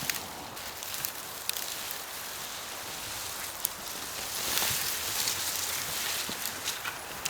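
Dry leaves and twigs rustling and crunching on the forest floor while firewood is gathered, with scattered sharp snaps and clicks.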